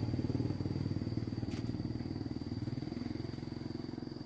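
A small motorcycle engine running with a fast, even pulse, fading steadily as it moves away. A thin, steady high whine sits above it throughout.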